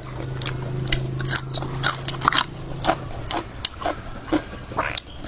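Someone eating and chewing crunchy food, with irregular crunches and clicks. A low steady hum sits under the first half.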